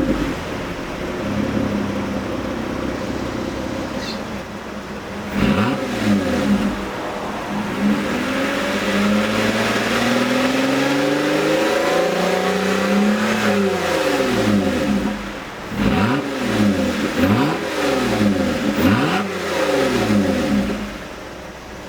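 Lotus Evora's 2GR-FE 3.5-litre V6 revved from idle through a custom variable-valve muffler with the exhaust valve closed. There is one short blip, then a long climb and fall in revs, then several quick blips near the end, with the engine settling back to idle between them.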